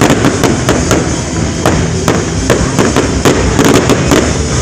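Fireworks display: a rapid, irregular barrage of sharp bangs and crackles, several a second, over a continuous low rumble.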